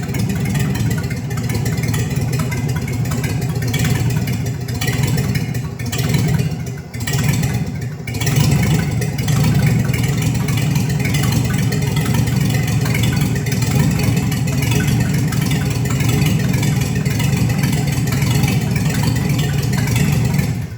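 Chevrolet 235 straight-six engine with dual carburetors running. Its loudness dips and recovers a few times between about four and eight seconds in, then it settles to a steady run.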